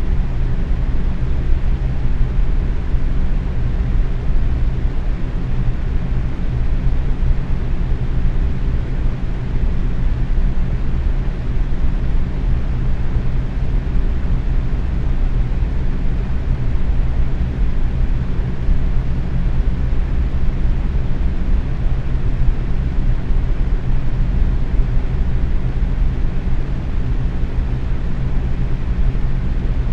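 Box fan running steadily at medium speed: an even whooshing rush of air, heaviest in the low end, with a faint steady motor hum underneath.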